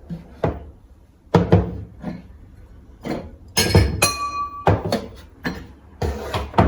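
A series of knocks as things are handled and set down on kitchen cupboard surfaces. About four seconds in, a glass clinks and rings briefly.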